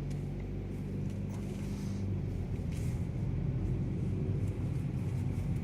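Car cabin noise while driving: a steady low engine hum and road rumble. The engine's steady tone fades about two seconds in.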